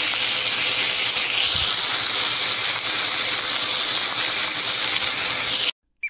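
Pork steak frying in butter and garlic in a pan, making a steady, even sizzle that cuts off abruptly near the end.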